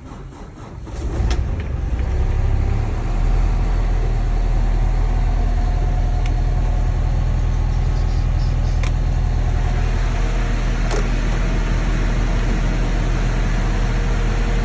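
Detroit DD5 four-cylinder diesel in a Thomas C2 school bus cold-starting in freezing weather: it catches about a second in, rises in level, and settles into a steady low idle within a few seconds.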